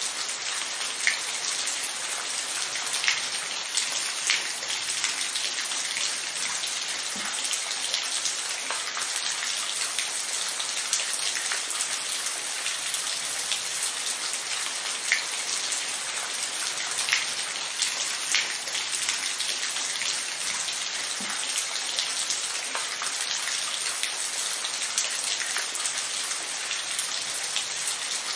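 Steady rain falling, an even hiss with scattered single drops ticking louder now and then.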